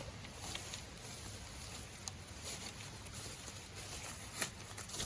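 Faint handling noise from the fire pit's parts and packaging being unpacked: light rustling with a few soft clicks and taps.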